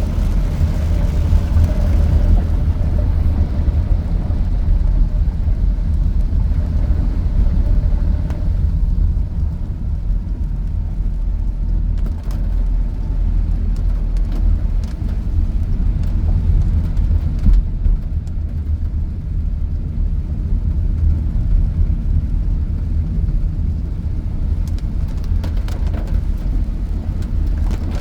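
Steady low rumble inside a car's cabin as it drives through a flooded street, with a faint hum that fades about eight seconds in and scattered light ticks.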